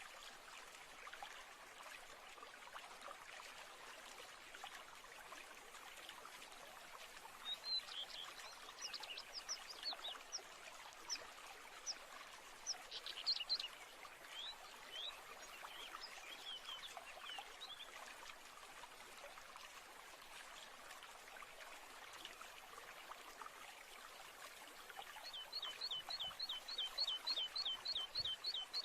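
Natural forest ambience: a faint, steady rush of running water with birds chirping. A flurry of short chirps comes from about a third of the way in, and near the end a bird repeats a quick sliding note about four or five times a second.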